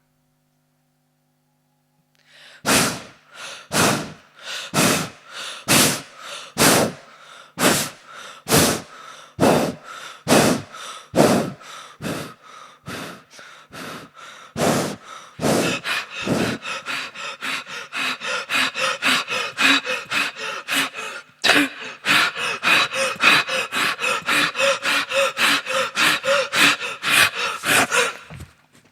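A person gasping in rhythmic breaths, starting after a short silence: about one gasp a second at first, then quicker, about three a second, from the middle on.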